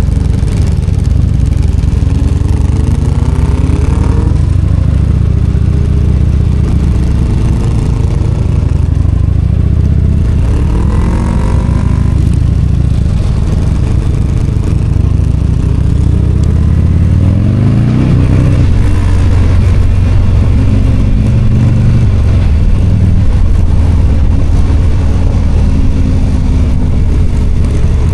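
V-twin motorcycle engine running on the move, its pitch climbing several times as it accelerates: a few seconds in, about ten seconds in, and again around eighteen seconds.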